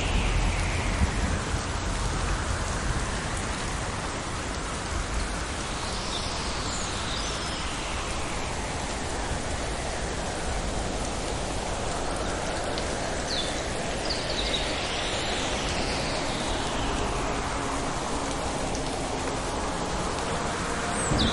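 Steady rain falling, with the tail of a low thunder rumble fading out in the first second or so.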